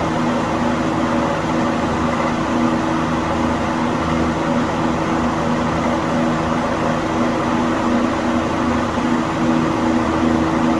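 Circa-1948 LAU Portable Cooler P-18 box fan with its FA Smith electric motor running on high speed: a steady rush of air over a constant motor hum.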